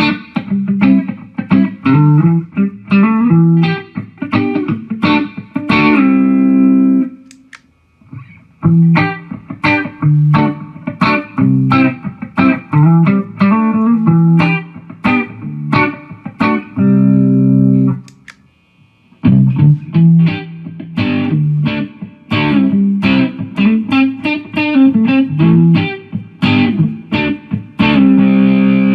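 Electric guitar played through a Mooer GE150 multi-effects pedal with a distorted tone: fast picked riffs in phrases that each end on a held chord. The playing stops briefly twice, about seven and eighteen seconds in.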